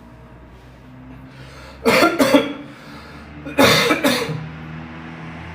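A man coughing in two short bouts about a second and a half apart, each a double cough. The coughing is set off by the spicy stew he is eating.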